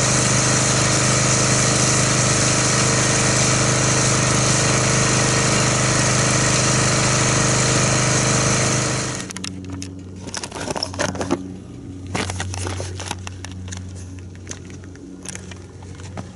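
Pressure washer running and spraying through a foam cannon: a steady motor sound under a strong hiss of spray. About nine seconds in the spray stops suddenly, leaving a quieter steady motor hum with a few clicks and knocks.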